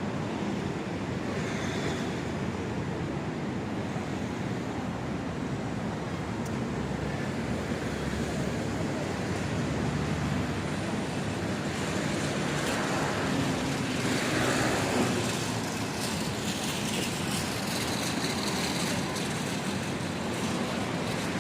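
City street ambience: steady road traffic noise, with a vehicle passing more loudly a little past the middle.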